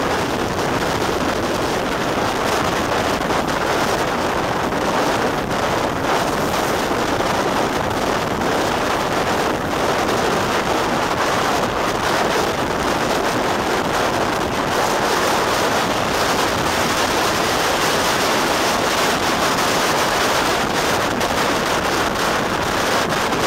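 Steady rush of wind on the microphone with the running noise of a steam-hauled train at speed, heard from an open carriage window.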